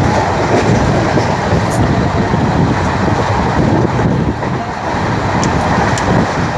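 Passenger train running, a steady loud rush of wheel, rail and wind noise with a few faint clicks.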